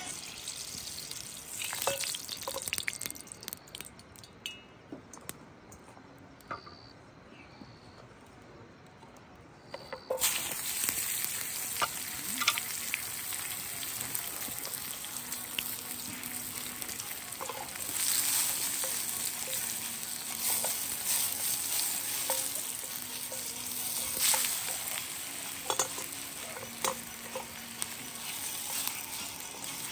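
Food frying in hot oil in a pan: a dense, steady sizzle with scattered pops. It starts abruptly about ten seconds in, after a quieter stretch of light clicks and taps.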